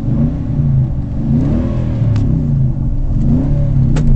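Nissan Titan's 5.6-litre V8 through a Magnaflow true dual exhaust, heard from inside the cab under hard acceleration. The engine note climbs and drops back several times as it shifts up through the gears, and a few sharp clicks come near the end.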